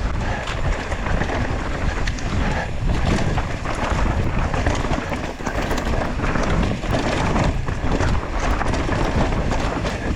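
Wind buffeting the microphone of a camera on a mountain bike riding fast downhill, with the bike rattling and its tyres clattering over a rough trail in frequent short knocks.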